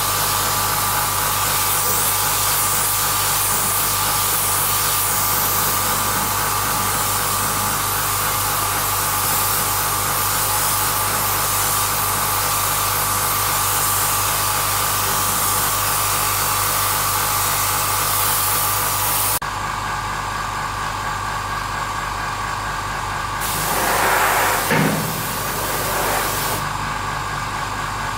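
Machinery running steadily. About two-thirds of the way through it changes suddenly to a lower, steadier running sound, with a brief swell and fall a few seconds later.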